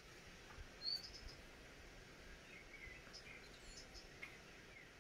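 Faint bird chirps over quiet background noise: a short rising chirp about a second in, then a few scattered small chirps.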